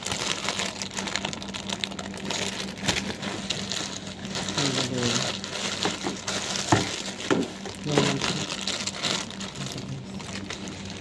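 Plastic and paper packaging crinkling and rustling with small clicks as a doll box is unpacked by hand.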